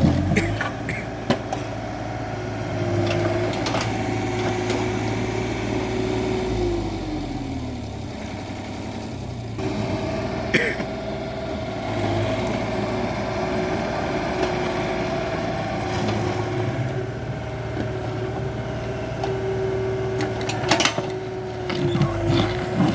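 Excavator's diesel engine and hydraulics running steadily. The pitch drops about seven seconds in and comes back up about three seconds later, with a few sharp knocks along the way.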